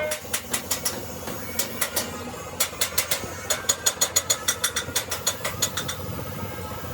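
Hammer blows on sheet metal: a run of sharp, ringing strikes, in short groups and then a quicker run of about four to five a second near the middle, over a steady hum.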